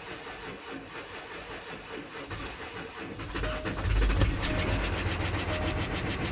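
2012 Range Rover Sport's 3.0-litre diesel V6 cranking on the starter, catching about four seconds in and settling into a fast, even idle with a rhythmic knock, which the owner takes most likely for the crankshaft, though sometimes it could be a piston. A short beep repeats about once a second once the engine is running.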